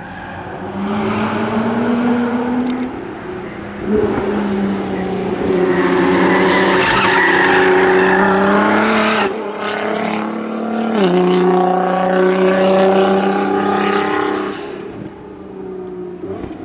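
Nissan GT-R R35's twin-turbo V6 with straight-pipe exhaust driven hard, its note climbing and dropping with the revs and gear changes. Loudest in the middle, where a rush of noise rides over the engine note, then it fades near the end.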